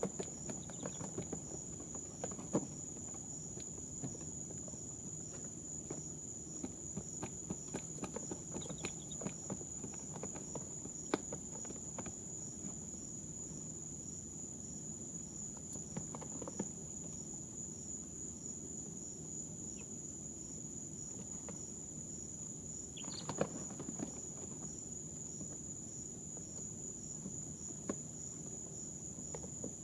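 Baby chicks in a brooder: scattered small taps and scratches as they shift and peck, densest in the first half, and one short peep about 23 seconds in. Under them runs a steady high-pitched whine with a low hum.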